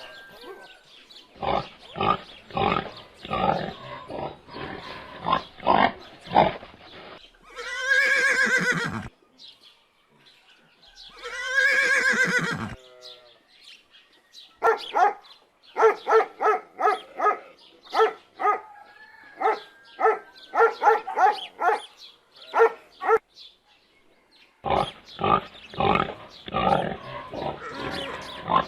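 A run of farm animal calls. The clearest are two horse whinnies, each about two seconds long with a wavering pitch, starting about 7 and 11 seconds in. Before and after them come quick series of short repeated animal calls.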